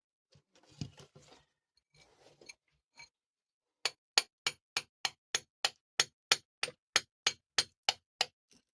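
Faint rustling and handling, then a fast, even series of sharp taps or clicks, about three and a half a second, starting about four seconds in and stopping shortly before the end.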